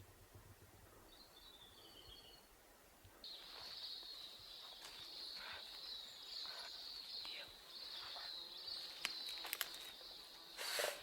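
A steady, high-pitched insect drone, cicada-like, starts abruptly about three seconds in, after a couple of brief high bird chirps. A few sharp clicks follow near the end, then a louder short rustling knock.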